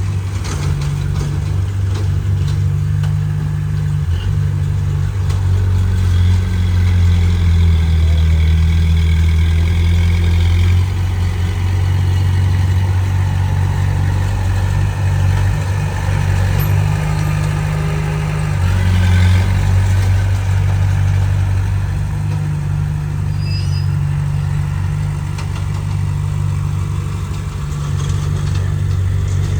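Heavy diesel engine of earthmoving equipment running steadily with a deep hum. It swells louder twice, about a fifth of the way in for several seconds and again a little past halfway, as the machine works under load.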